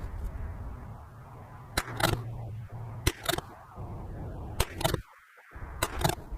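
Strong wind rumbling on the microphone, broken by four pairs of sharp clicks about a second and a quarter apart.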